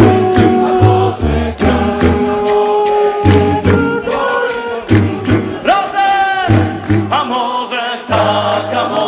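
A cappella vocal group singing in close harmony over a sung bass line, with a steady beat of sharp clicks.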